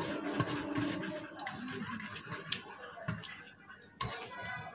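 Close-up eating sounds of rice eaten by hand: wet chewing and lip-smacking with a string of short clicks.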